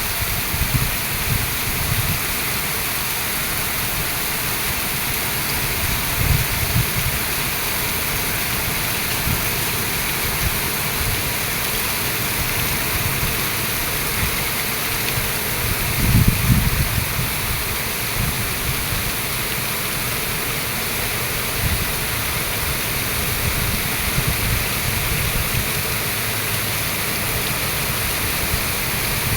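Rain pouring down steadily, an even hiss, with a few short low rumbles, the strongest about sixteen seconds in.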